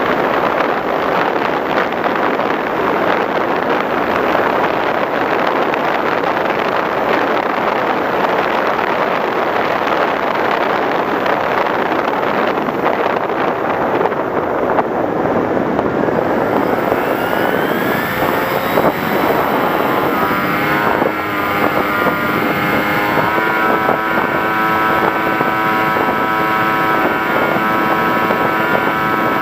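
Radio-controlled FPV model aircraft: a steady rush of air noise, then its propeller motor's whine rises in pitch about halfway through and holds steady.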